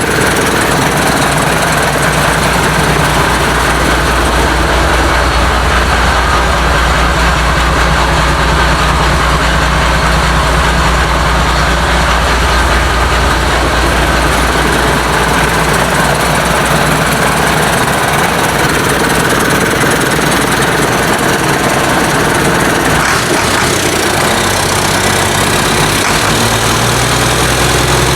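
International DT466 inline-six diesel running at a steady idle with its diesel clatter, in one of its first runs after being installed. Near the end its note changes and it settles at a different engine speed.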